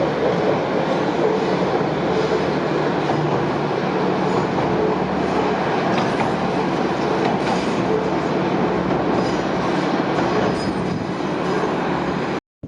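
Diesel railcar, a JR West KiHa 120, running past with a steady loud engine hum and the noise of its wheels on the rails. The sound cuts off abruptly near the end.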